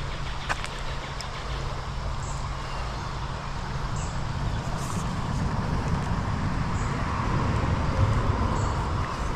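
A road vehicle passing, a low rumble with tyre noise that grows louder toward the end and then begins to fade.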